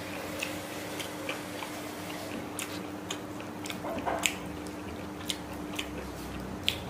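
Close-up chewing of rice and chicken curry eaten by hand, with scattered sharp wet mouth clicks. A faint steady hum runs underneath.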